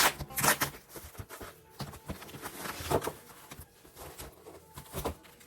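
A quick, irregular run of sharp clicks and knocks, with a few short ringing clinks among them.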